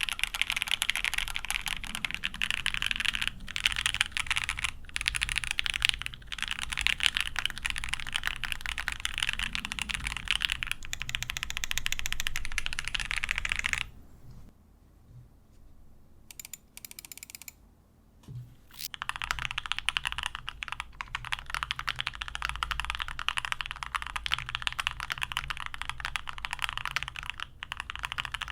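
Fast typing on a custom 75% mechanical keyboard, a GOK 7V with H1 switches, PBT keycaps and a polycarbonate plate: a steady stream of key clacks and spacebar thocks. About halfway through, the typing stops for a few seconds, then resumes. The first stretch is the build with case foam and no tape mod; after the break it is without case foam and with electrical tape under the PCB.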